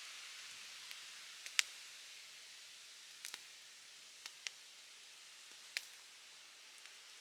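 Campfire crackling: sharp, separate pops and snaps at irregular intervals over a soft, steady hiss, the loudest pop about a second and a half in.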